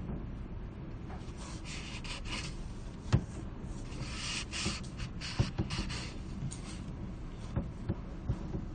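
Library ambience: a steady low hum of room tone with soft rustling and scattered light knocks and taps, the loudest knock about three seconds in.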